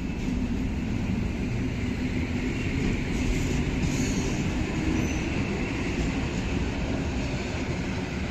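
Koleje Mazowieckie electric multiple unit running past along the platform: a steady rumble of its wheels and running gear on the rails.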